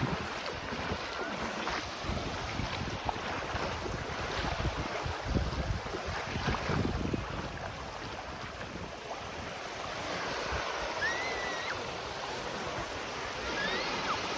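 Sea waves washing on the shore, with wind buffeting the microphone in low gusts during the first half. A few faint high calls come through near the end.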